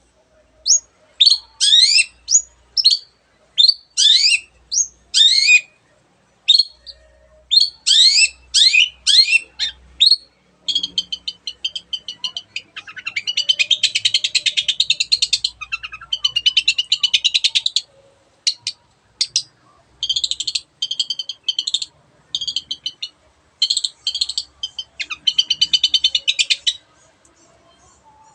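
Long-tailed shrike singing. First comes a run of short, sharp notes, each sweeping up or down in pitch, about one or two a second. From about ten seconds in it switches to fast, harsh chattering phrases that run close together, and these stop shortly before the end.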